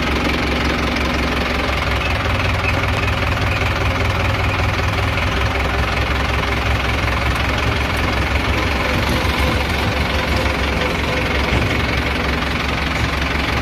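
Small electric motor of a DIY model tractor running steadily, a continuous buzzing hum with a rattle, slightly changing in pitch about two seconds in.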